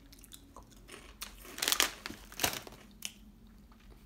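Someone biting and chewing a crunchy chip: a cluster of loud crunches about a second and a half in, then two more crunches as the chewing goes on.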